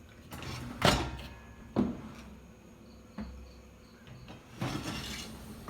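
Dishwasher lower rack being slid out on its rollers, with two sharp knocks about one and two seconds in and lighter clicks and rattling after.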